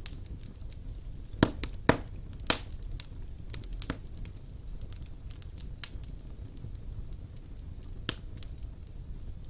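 Wood fire burning in a fireplace: scattered sharp pops and snaps of the burning logs over a low steady rumble. The loudest three pops come close together a second or two in, with a few more spread through the rest.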